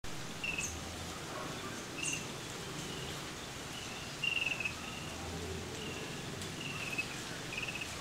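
Birds chirping: short high chirps about once a second, a few of them quick trills, over a steady outdoor hiss.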